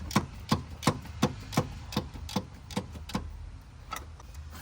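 Hand ratchet clicking in a steady rhythm, about three clicks a second, as an engine mount bolt is turned out; the clicking stops about three seconds in, with one more click near the end.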